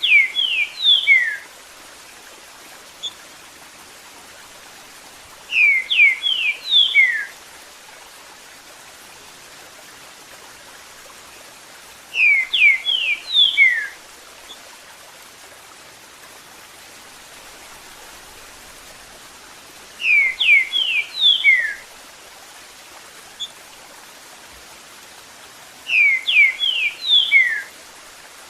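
Green-winged saltator (trinca-ferro) singing its 'eu sou terrível' song: a short phrase of clear whistled notes, repeated about every six or seven seconds, five times. A steady hiss of running water sounds underneath.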